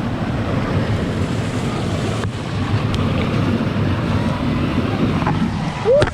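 Rushing water with wind buffeting the camera microphone, a steady loud wash of noise as a person rides a water slide down the rocks. Near the end comes a short rising voice sound.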